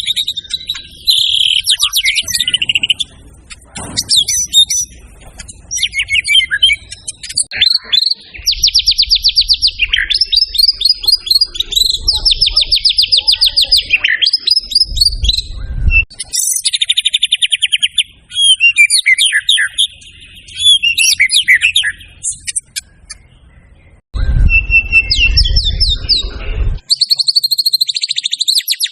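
White-rumped shama (murai batu) singing a long, varied song of rapid trills, whistles and chattering phrases, showing off its repertoire of mimicked material. A low rumble runs under the song in two stretches.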